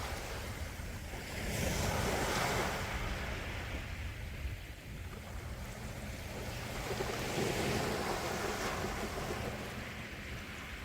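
Sea waves washing onto a shore, the surf swelling about two seconds in and again past the middle.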